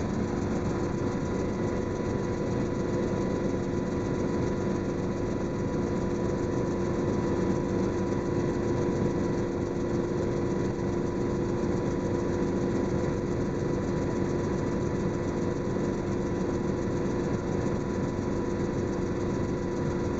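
Helicopter engine and rotor noise in steady flight, heard from inside the cabin: a constant drone with steady tones on top.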